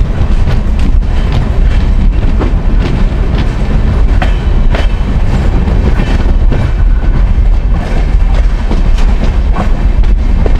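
Ramayan Express passenger coaches running on the track, heard from the open coach doorway. A loud, steady rumble of wheels and wind, with irregular sharp clacks as the wheels pass over rail joints.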